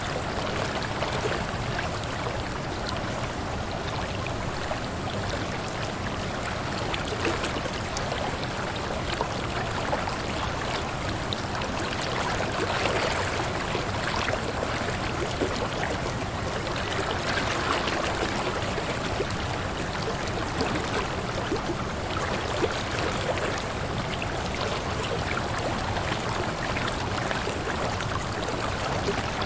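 Water falling and splashing in a steady, even rush, with small splashes and trickles heard through it.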